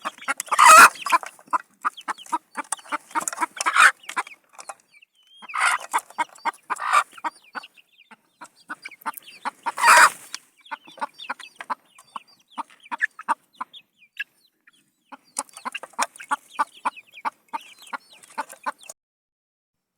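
Mother hen clucking rapidly and agitatedly, with several louder squawks, defending her chicks from someone coming close.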